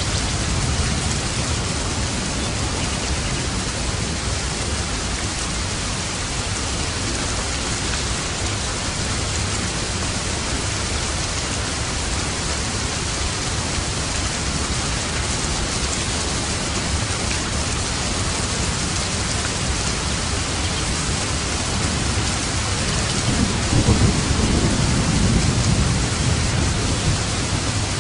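Steady rain, an even hiss of drops on surfaces, with a low roll of thunder that swells and fades near the end.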